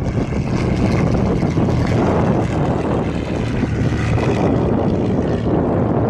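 1952 Cessna 170's six-cylinder Continental engine and propeller droning steadily as the plane flies low and slow past.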